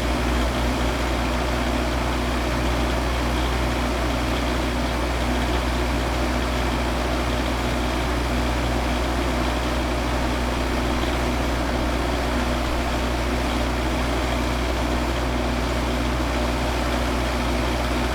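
Van engine idling with a steady, unchanging low hum.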